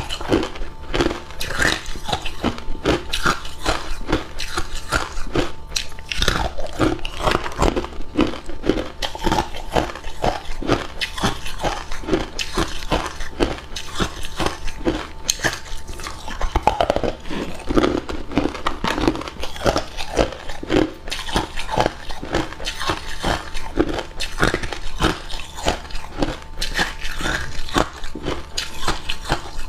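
A person biting and chewing hard cube ice close to the microphone: a continuous stream of sharp, irregular crunches as the ice cracks between the teeth.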